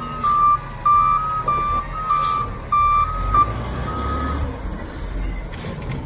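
Recycling garbage truck's backup alarm beeping steadily over the running diesel engine as the truck reverses; the beeping stops about four seconds in while the engine keeps running.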